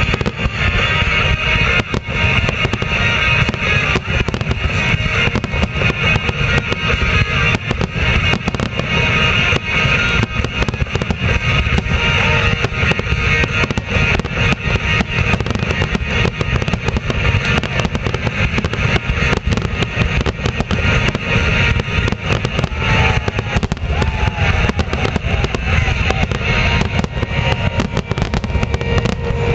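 Fireworks finale: a dense, unbroken barrage of shell bursts and crackling, with music playing behind it.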